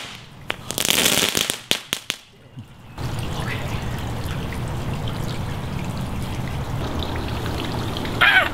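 Consumer fireworks hissing and crackling, with sharp pops in the first two seconds, then a steady hiss that comes in suddenly about three seconds in.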